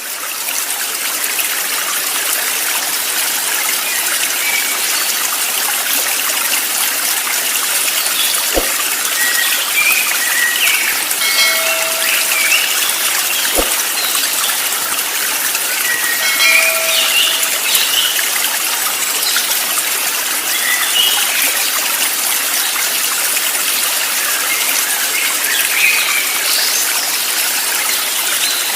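Steady rushing and trickling of a stream, with scattered short bird chirps and two brief held whistled notes over it. Two sharp clicks stand out about a third and halfway through.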